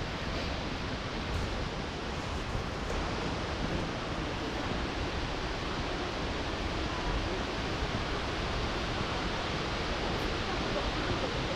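Steady rush of water falling at Shifen Waterfall, an even noise without breaks.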